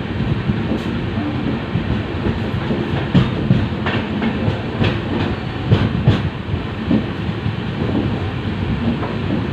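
LHB passenger coach running along the track: a steady rumble of wheels on rail, with irregular sharp clacks as the wheels pass over rail joints.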